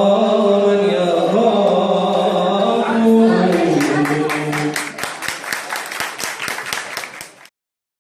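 Male voice singing an unaccompanied Arabic mawwal, holding the last note with a slow wavering ornament until it fades about four seconds in. From about three seconds in, sharp strikes come at a fast, even beat of about four a second. Everything cuts off abruptly near the end.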